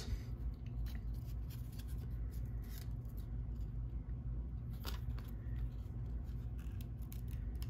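Faint clicks and light rustling of trading cards being handled and pried apart, the cards stuck together ("bricked"), over a steady low hum. One sharper click comes about five seconds in.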